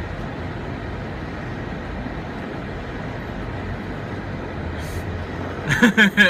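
Steady rush of traffic and road noise coming in through an open car window. A man's voice, laughing, breaks in near the end.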